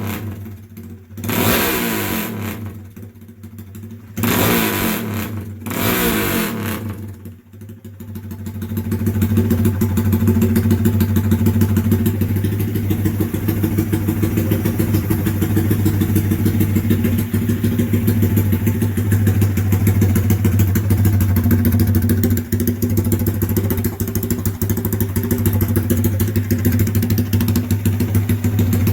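Honda Grom's single-cylinder engine running through a straight-piped exhaust: it is blipped several times in the first few seconds, then runs steadily and loudly. The note is loud enough that the owner calls the setup a little extreme.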